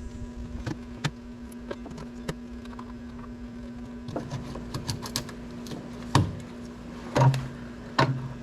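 Scattered clicks and knocks of plastic push-pin retainers and a plastic under-panel being pried and worked loose by hand, with a few louder knocks near the end, over a steady low hum.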